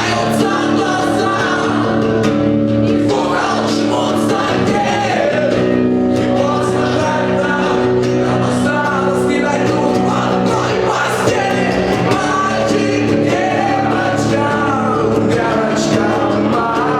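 Live acoustic music: a guitar accompanying a singer's voice.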